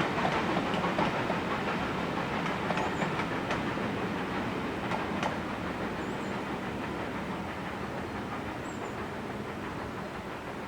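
Steam train's wagons rattling and clicking over the rails as it passes, fading steadily as it moves away.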